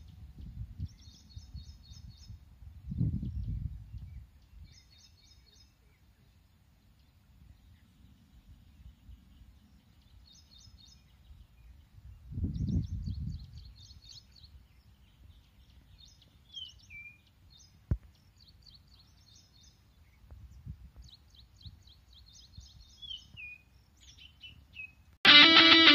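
Small birds chirping in short repeated high trills, with two low rumbles of noise on the microphone and a single sharp click. Loud guitar music cuts in suddenly at the very end.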